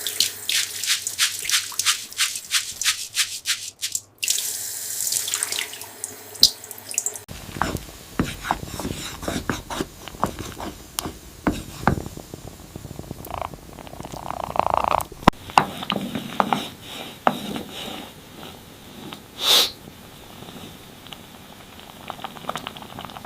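Kitchen cooking sounds: water splashing and dripping, with rapid clicks and clinks of utensils, broken into several short cut segments.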